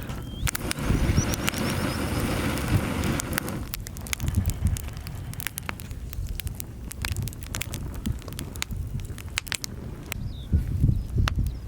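Firewood crackling as it burns in a folding fire pit, with sharp pops scattered at irregular intervals over a low rumble; a denser hiss in the first few seconds thins out after that.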